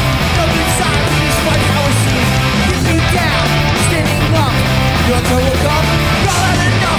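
Hardcore punk band playing live at full volume: distorted electric guitars, bass and drums with crashing cymbals.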